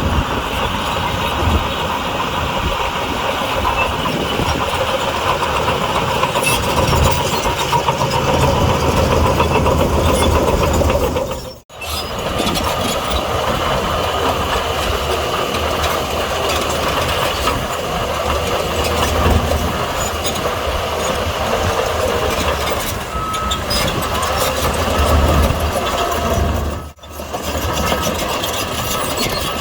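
Heavy diesel engine of earthmoving machinery, a bulldozer or dump truck, running steadily. The sound cuts out abruptly twice, about twelve seconds in and near the end.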